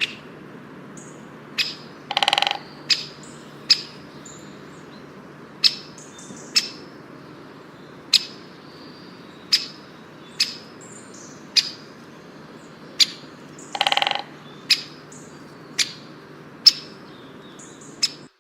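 Bird chirping: short, sharp, high chirps at irregular intervals of about a second, with two longer pulsed calls, one about two seconds in and one about three quarters of the way through, over a faint steady low hum.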